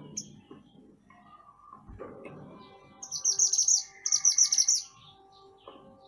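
A songbird singing two quick bursts of rapid, high-pitched chirping, each just under a second long, about three and four seconds in, over faint background bird calls.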